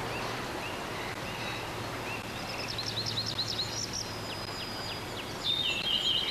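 Songbirds chirping: a string of short, high, quick notes that grow busier in the second half, over faint outdoor ambience with a low steady hum.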